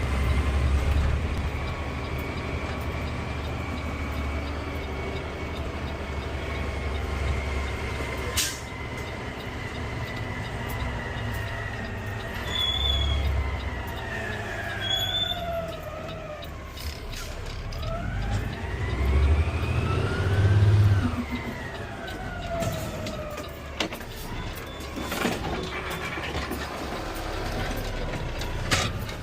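Peterbilt 520 CNG garbage truck heard from the cab: a low engine rumble with a whine whose pitch slowly falls, bottoms out about halfway through, then climbs again as the truck slows and pulls away. Two short high beeps sound about halfway through.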